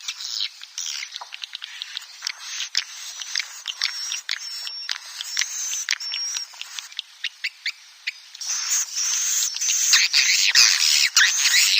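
Swiftlets calling: a rapid twitter of short clicks and high chirps, growing denser and louder about three-quarters of the way in.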